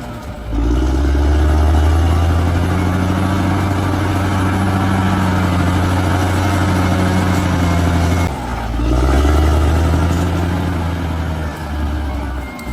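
Large bulldozer's diesel engine running steadily, with a short drop in level about half a second in and again about two-thirds of the way through.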